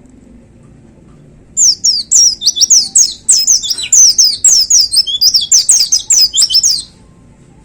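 White-eye (pleci) singing a fast, loud burst of high, sharply falling whistled notes, starting about a second and a half in and stopping after about five seconds.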